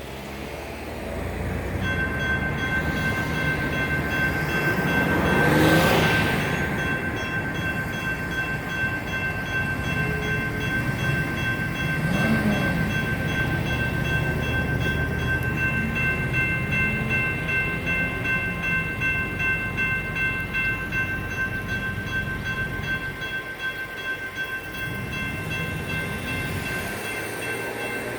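General Signals Type 2 electronic crossing bells ringing steadily from about two seconds in, over the low rumble of a Siemens U2A light rail train passing. A passing road vehicle swells up briefly about six seconds in.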